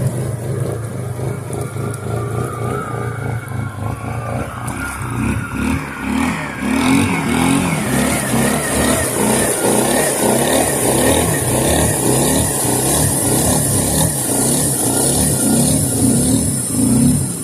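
Suzuki Eiger 400 ATV's single-cylinder engine running under way, its pitch rising and falling with the throttle. It gets louder about six seconds in, with a steady hiss alongside.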